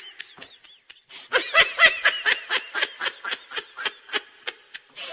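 A person laughing in a quick, even run of short, high-pitched 'ha' pulses, about five a second. The laugh is loudest just after a brief lull near the start, then gradually fades.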